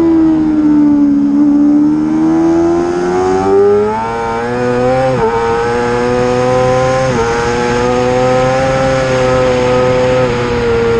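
Racing motorcycle engine at high revs under hard riding. The note sags over the first couple of seconds, then climbs, and is broken by two quick upshifts about five and seven seconds in, each a sudden small drop in pitch. It then holds high, with a slight dip near the end.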